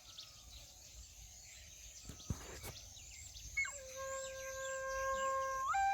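Birds chirping, with a sharp click a little after two seconds in. From about three and a half seconds in, a flute starts playing long held notes, growing louder and stepping up in pitch near the end.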